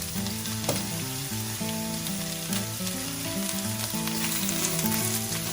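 Sliced onions, lemongrass and kaffir lime leaves sizzling steadily in hot oil in a wok, with a few sharp clicks. Soft background music runs underneath.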